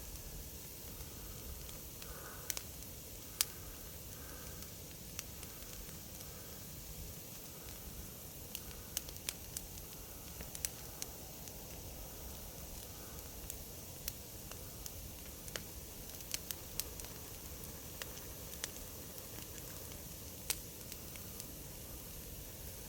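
Wood fire crackling: a steady soft hiss with irregular sharp pops and snaps scattered throughout.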